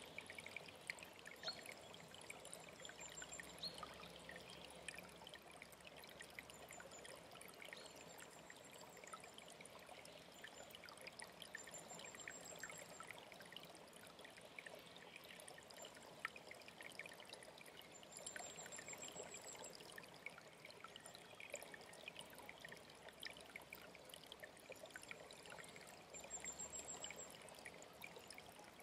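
Faint, steady running water of a small mountain stream, trickling and pouring. A small bird's short, very high trill repeats every few seconds over it.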